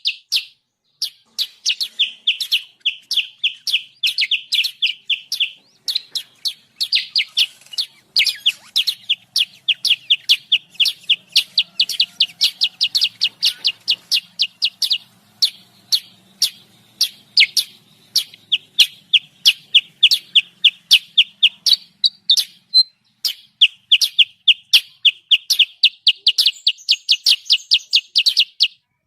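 Kutilang sutra lure call: long, rapid runs of sharp, high chirps, several notes a second, broken by short pauses. It is the agitated ('ribut') call that bird trappers play to draw the birds close.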